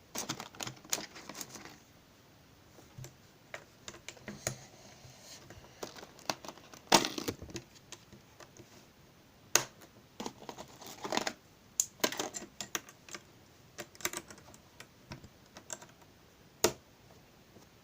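Small plastic parts of a Znatok electronic construction kit clicking and clattering as they are handled and picked through, in irregular clicks with a few short clusters.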